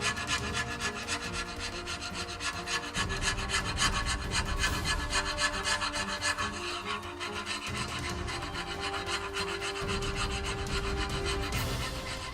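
Rapid, repeated scraping strokes working rust off the metal table top of an old Rockwell Beaver table saw.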